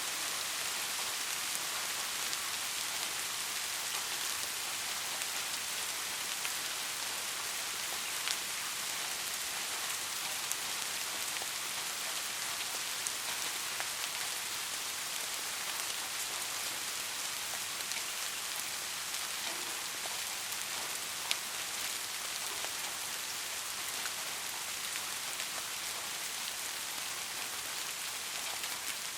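Steady rain falling on forest foliage, an even hiss with a few sharper drop ticks now and then.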